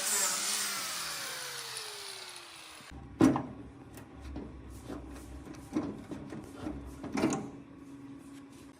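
A small electric power tool's motor winding down after it is switched off, its pitch falling for about three seconds. Then come a few scattered knocks of tools on metal, the loudest about three seconds in.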